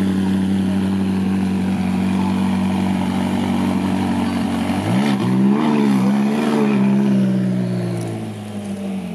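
A car engine idles steadily, then is revved up about halfway through, its pitch rising and wavering for a couple of seconds before it drops back to idle. The sound fades a little near the end.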